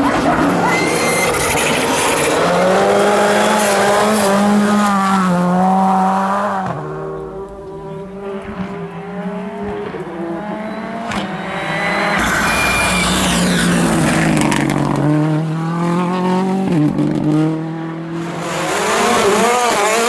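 World Rally Car's turbocharged four-cylinder engine revving hard through the gears on a rally stage, pitch climbing and dropping with each shift. It fades for a few seconds around the middle, then comes back loud.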